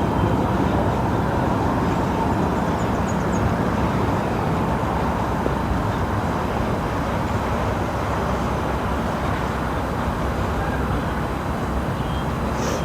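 Steady low outdoor rumble of background noise, even throughout, with no distinct events.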